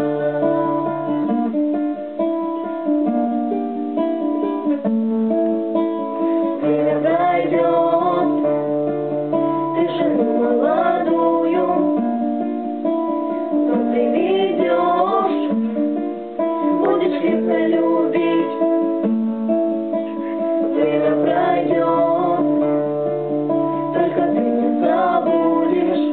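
Guitar playing an instrumental melody over accompaniment with long held bass notes, several seconds each.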